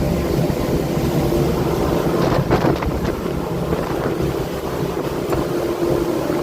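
Motorboat engine running steadily underway, with wind on the microphone. About two and a half seconds in there is a short cluster of sharp noises.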